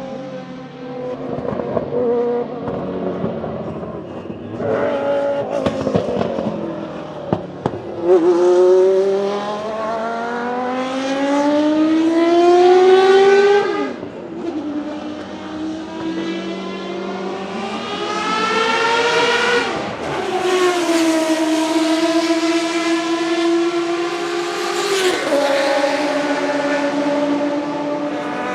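Historic Group C sports-prototype race car engines at racing speed, revving up through the gears as they pass. The note climbs in pitch for several seconds, drops sharply about halfway through as a gear is changed, climbs again, then holds before a further drop near the end.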